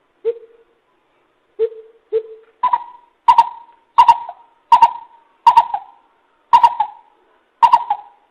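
Greater coucal (bìm bịp) giving a series of hooting calls: three low notes, then a run of higher notes at about one every two-thirds of a second.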